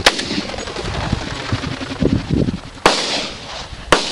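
Three shotgun shots at a flushed pheasant: one at the very start, then two more about a second apart near the end, each with a short echo trailing off.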